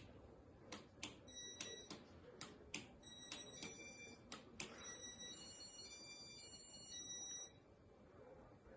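Faint high-pitched electronic tones playing a short run of changing notes for several seconds, with scattered sharp clicks in the first half; the tones stop abruptly about three-quarters of the way through.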